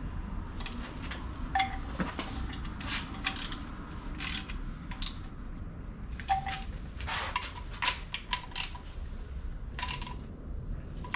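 Irregular metal clinks and light knocks of hand tools against bolts and engine parts, some leaving a short metallic ring, as bolts are fitted and snugged down.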